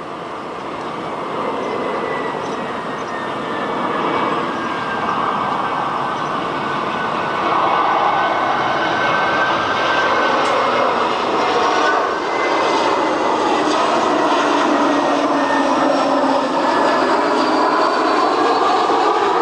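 Jet engines of an Airbus A321 airliner, a steady roar that grows louder over the first several seconds and then holds. A high engine whine glides slowly down in pitch through it.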